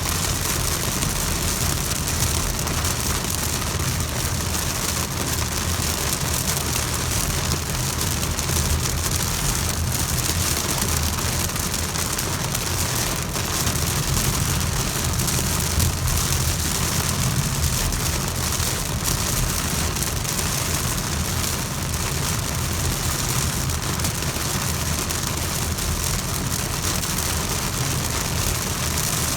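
Heavy rain falling steadily, an even hiss, with a low rumble underneath.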